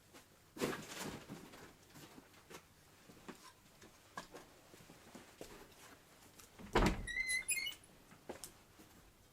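Scattered light knocks and clicks of handwork, with a louder knock about seven seconds in followed by a brief run of high squeaks.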